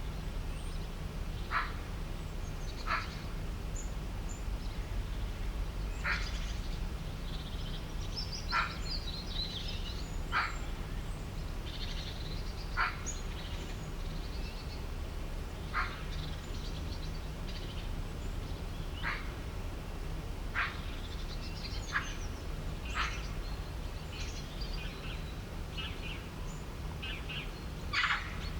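Outdoor animal calls: a short, sharp call repeats every second or two, with birds chirping higher in between, over a low steady hum.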